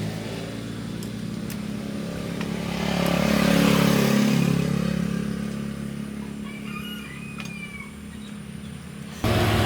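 Restored 1989 Hyosung motorcycle engine running, growing louder to a peak a few seconds in and then fading, with an abrupt jump back to a louder engine sound near the end.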